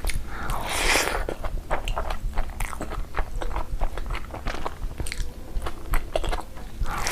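A person chewing and biting into food, with a dense run of small crackling clicks and a louder crunchy bite about a second in.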